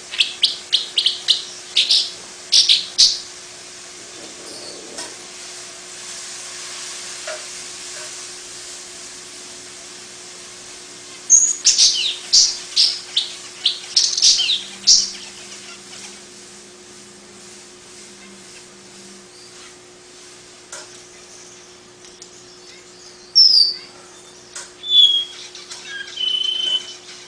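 Long-tailed paradise whydah singing: three bouts of rapid, high chattering chirps separated by pauses of several seconds, the last bout with a few separate whistled notes. A faint steady hum and hiss lie underneath.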